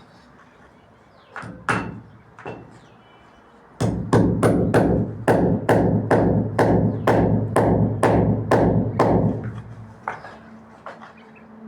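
Hammer blows: a few single knocks, then a steady run of sharp strikes at about three a second for some five seconds, with a low hum under the run.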